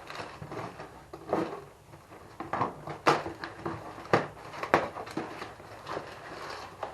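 Handling an opened shipping box and its contents: irregular sharp knocks and clicks among soft rustling, loudest around three to five seconds in.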